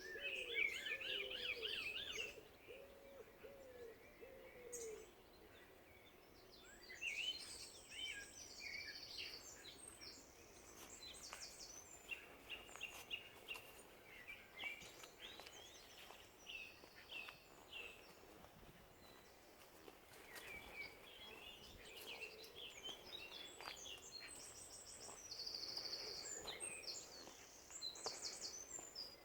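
Garden birdsong: a pigeon cooing several times in a row at the start, then small songbirds singing in repeated high, chirping phrases.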